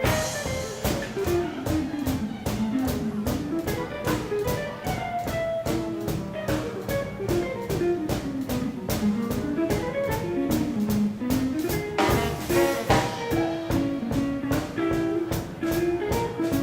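Live swing combo playing an instrumental passage in classic 1940s swing style: a melodic line moves up and down over a steady drum-kit beat.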